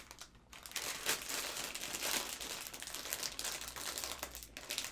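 Crinkly plastic potato-chip packet rustling and crackling as it is handled and worked open.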